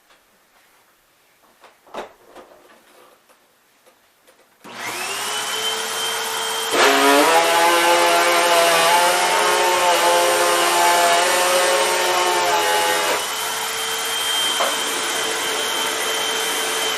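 Hoover WindTunnel MAX upright vacuum switched on with a steady motor whine; about 7 s in the brush roll engages and a really loud droning rub with many tones joins for about six seconds, then drops back to the motor alone. The noise comes from the brush roll's plastic end caps sitting off their posts and rubbing against the bristles.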